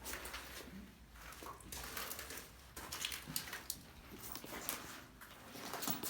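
Irregular scuffing and crunching of footsteps on a gritty, debris-strewn concrete floor.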